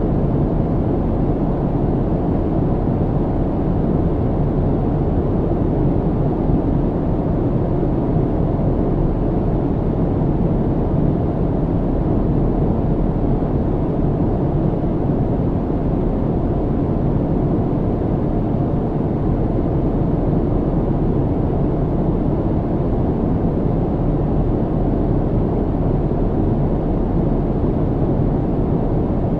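Steady low cabin rumble of a jet airliner in flight: even engine and airflow noise, heaviest in the low range and muffled in the highs, with no change in level.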